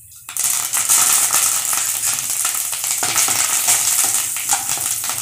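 Fresh curry leaves hitting hot coconut oil in a kadai with chana dal frying: a sudden loud crackling sizzle starts about a third of a second in and runs on steadily as a wooden spatula stirs through it.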